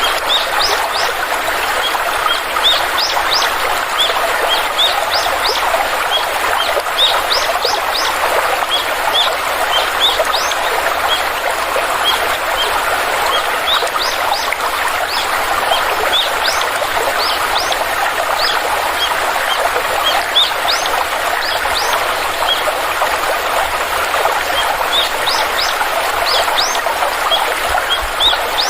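Stream water running steadily, with birds chirping over it: many short, high chirps, often in quick runs.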